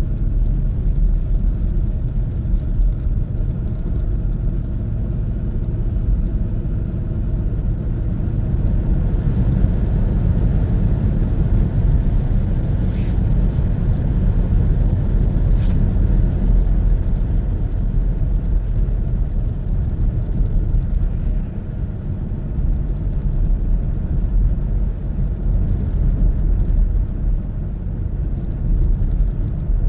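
Car driving along the road, a steady low rumble of engine and tyre noise.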